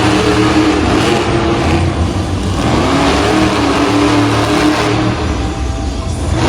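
Monster truck engine revving hard during a freestyle run, its pitch rising and falling as the throttle is worked.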